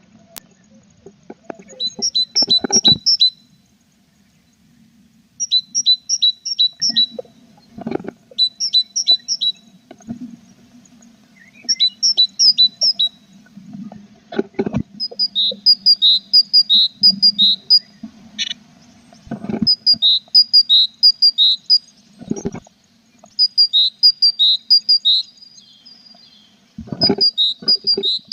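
A tit singing: short phrases of quick, high, repeated two-pitched notes, again and again with short pauses. About a dozen loud knocks break in between, over a faint steady low hum.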